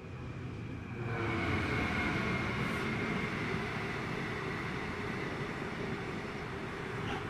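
Class 66 diesel locomotive hauling an intermodal container freight train past at close range. The sound grows as it approaches, jumps sharply about a second in as the train comes level, then carries on as a steady wheel-and-wagon noise with faint steady tones.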